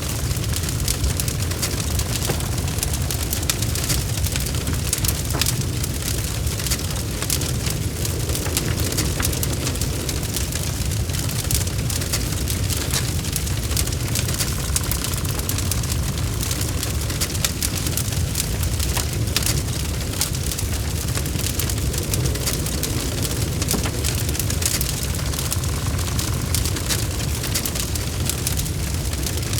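Log fire burning in a fireplace: a dense, irregular crackle of small pops over a steady low rumble of the flames.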